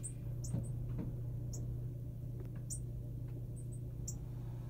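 A bird giving short, thin, high-pitched chirps, about one a second, over a steady low hum.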